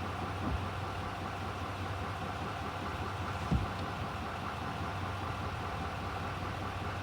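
Truck engine idling steadily, with a single low thump about three and a half seconds in.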